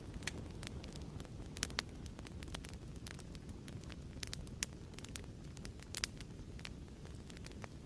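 Fireplace crackling: a steady low rumble of burning with frequent sharp pops and snaps, a few louder ones scattered through.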